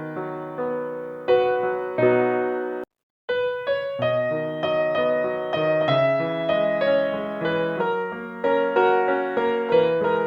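Background piano music: a gentle line of struck notes that ring and fade. It cuts out completely for a split second about three seconds in, then carries on.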